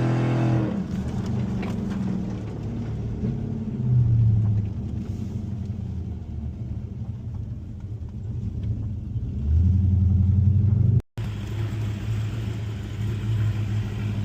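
Car engine running, its note swelling louder about four seconds in and again from about nine and a half seconds; the sound drops out for an instant near eleven seconds.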